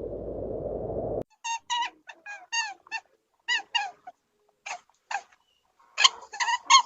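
A steady low hiss cuts off about a second in. It is followed by a series of short, high, falling calls from a small animal, some single and some in quick runs, coming thickest near the end.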